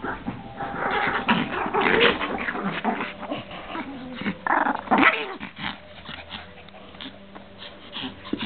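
Small dogs, a Pomeranian and a Lhasa Apso, growling in play, busiest and loudest in the first five seconds, then quieter.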